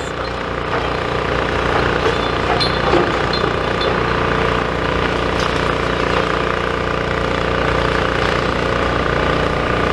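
Demolition excavator's diesel engine running steadily, with some clatter mixed in.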